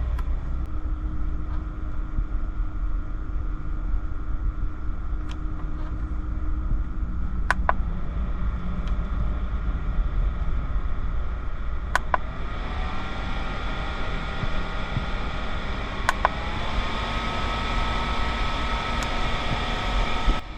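Steady low rumble with a fan running, broken by four sharp clicks. After the last two clicks a whine slides in pitch and settles to a steady tone, as a fan motor changes speed.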